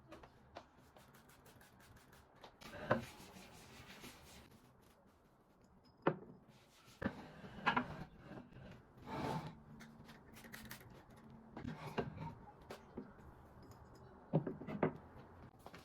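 Rubbing and scraping with scattered light knocks and clatters at irregular intervals, as of household objects being handled and surfaces wiped.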